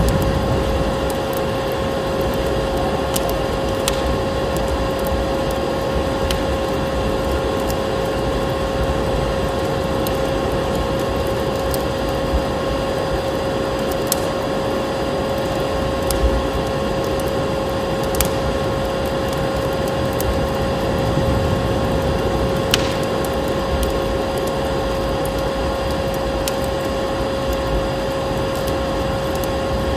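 Vacuum cleaner motor running with a steady whining hum and rushing air, over a wood fire crackling with occasional sharp pops.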